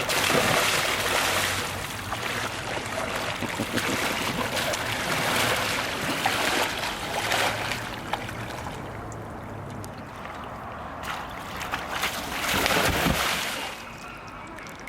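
Water splashing and sloshing around a kayak as it is capsized and rolled back upright with a back deck roll using only the hands. The splashing comes in several surges, loudest at the start and again near the end.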